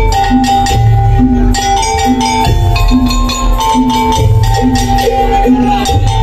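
Madurese daul (tong-tong) music played live: a band of drums and percussion with a held melodic line on top, continuous and loud.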